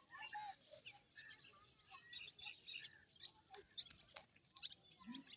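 Small birds chirping faintly: many short, high calls overlapping in quick succession, with a few scattered clicks.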